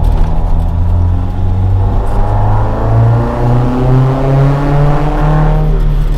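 Toyota AE86 Sprinter Trueno with a swapped AE111 20-valve 4A-GE engine on individual throttle bodies and a Fujitsubo Legalis R exhaust, accelerating: the engine note rises steadily for about four seconds, then levels off near the end.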